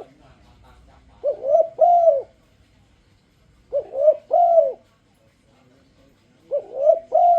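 Spotted dove (tekukur turtledove) cooing: three phrases about two and a half seconds apart, each a short note followed by two longer arching coos.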